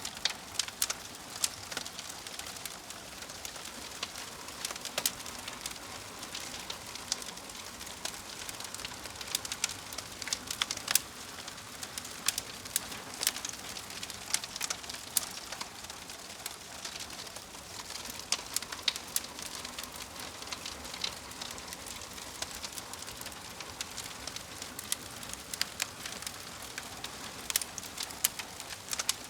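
Wood fire burning with a steady hiss and irregular sharp crackles and pops.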